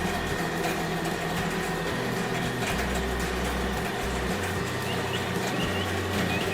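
A heavy construction vehicle's engine running steadily, a low rumble that shifts in pitch every second or so, with a thin steady high tone over it.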